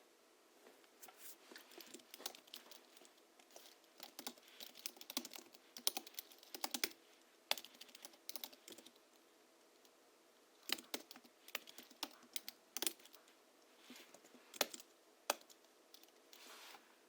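Hansung GHL-5X keyboard being typed on in quick runs of keystrokes, with a pause of a few seconds about halfway. The keys are tuned with Krytox-lubricated springs and 50 g rubber domes for a deep, muted "dogak" keystroke sound.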